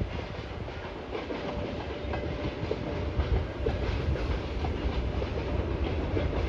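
Freight train wagons rolling past, their wheels clicking irregularly over the rail joints over a steady rumble, with a faint steady high tone through the middle.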